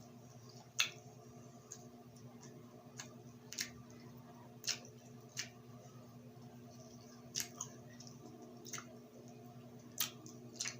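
Eating sounds while chewing grilled street food: irregular sharp, wet mouth clicks and smacks, about every one to two seconds, over a steady low hum.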